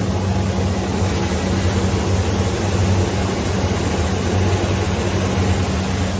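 Six-roll wood sanding machine running steadily, its motors giving a low hum under a rough, even noise.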